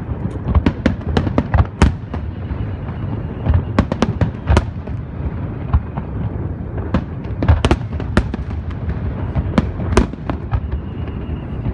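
Aerial fireworks display: a dense run of sharp bangs at irregular intervals, sometimes several a second, over a continuous rumbling crackle of shells bursting.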